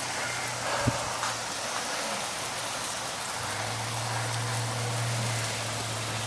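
A car engine running steadily with a low hum that grows louder about three and a half seconds in, as a car tries to climb an ice-glazed road, over a steady hiss of falling sleet. A single sharp click about a second in.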